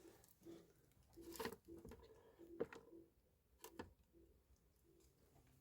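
Near silence with a few faint, scattered taps and clicks.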